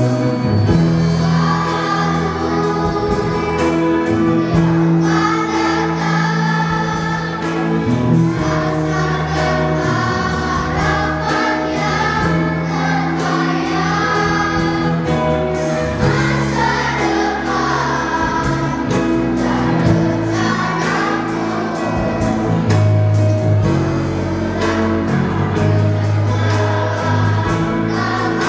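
Children's choir singing a Christian praise song over a backing track with sustained bass notes and a steady beat.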